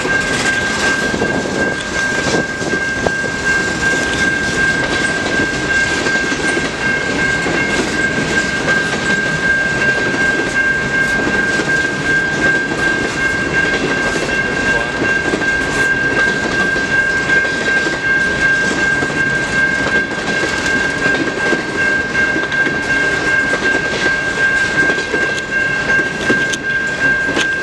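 Freight cars of a CN mixed freight train rolling steadily past a grade crossing, wheels clicking over the rail joints. A steady high ringing tone runs through it, the crossing's Safetran Type 3 electronic bell.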